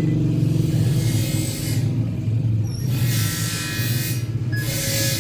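Motor vehicle engine running steadily with a low hum, with traffic noise swelling up three times.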